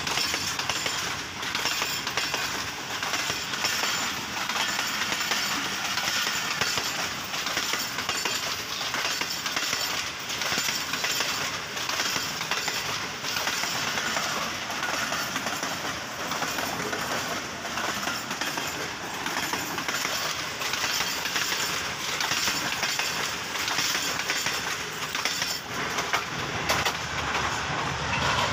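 Passenger train coaches passing close by, the wheels clattering over the rail joints in a steady clickety-clack over a dense rumble of running noise.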